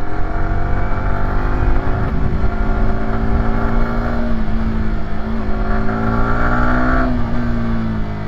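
Yamaha YZF-R125's single-cylinder four-stroke engine running under load while riding uphill, with a steady low wind rumble. The pitch shifts about two seconds in, rises slowly, then falls away near the end as the throttle eases.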